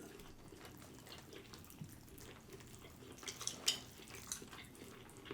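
Faint, wet, sticky smacks and clicks of eating and handling a sauced barbecue beef rib, scattered through the second half.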